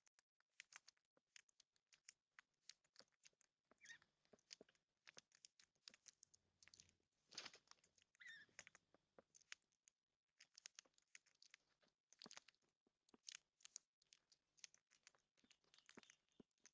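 Faint, dense, irregular clicking and crunching of birds pecking at seed, with a couple of short bird calls about four and eight seconds in.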